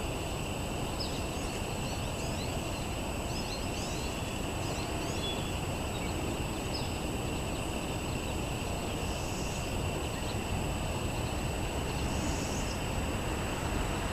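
Outdoor ambience: a steady low rumble with a constant high hum, and small birds chirping briefly now and then.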